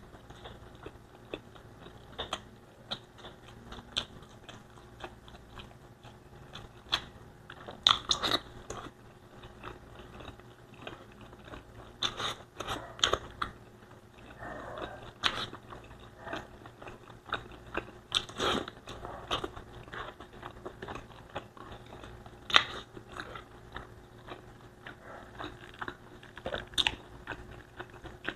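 A person eating Bicol Express with rice close to the microphone: chewing, with short sharp mouth clicks at irregular intervals.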